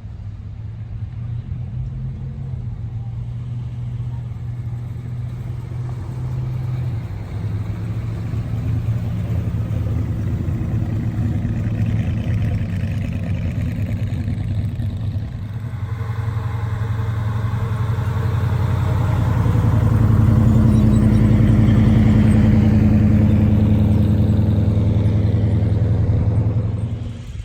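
Car engine running steadily, growing louder in the second half as it comes closer or is revved, then fading sharply near the end.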